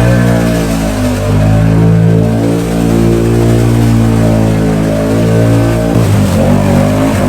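Can-Am Outlander XMR ATV's V-twin engine running hard at steady throttle, its pitch shifting a little, easing off briefly near the end and then picking up again.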